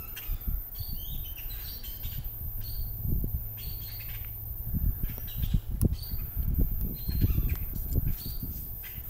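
A flock of birds calling over and over with short, sharp squawks and chirps, sounding agitated. Gusts of wind buffet the microphone, stronger in the second half.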